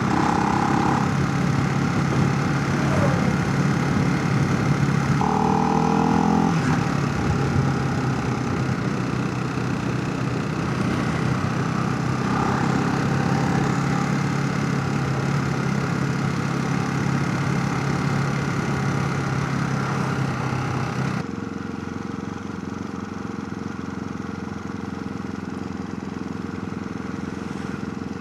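Motorcycle engine running at a steady pitch while riding, with wind rushing over a helmet chin-mounted camera's microphone. About 21 seconds in, the sound suddenly drops to a quieter, duller level.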